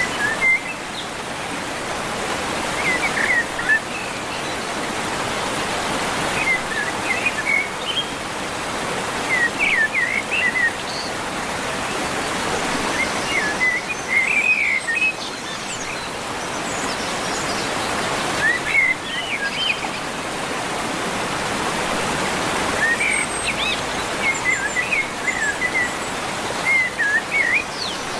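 A steady hiss of falling water, rain or a waterfall, with small birds chirping in short bursts every few seconds.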